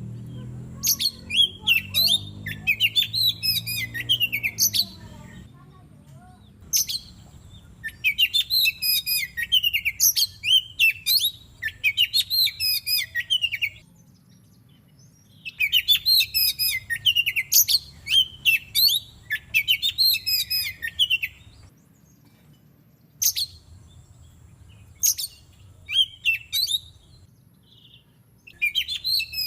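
Oriental magpie-robin singing: bursts of rapid, varied high-pitched phrases, each a few seconds long, separated by short pauses.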